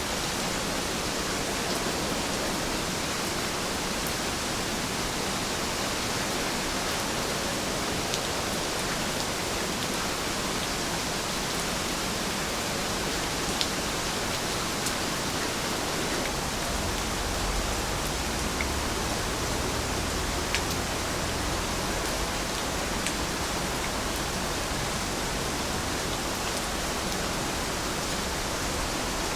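Heavy rain falling in a steady hiss, with a few faint drop ticks and a brief low rumble in the middle.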